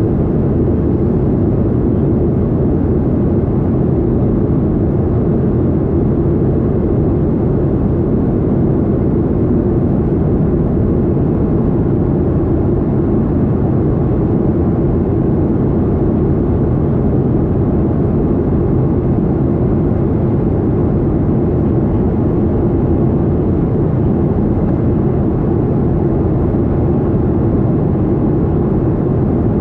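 Boeing 737-800 jet engines (CFM56-7B turbofans) and airflow heard as a steady, even roar, low-pitched and muffled, with a faint held tone in it, as in the cabin of the airliner under way.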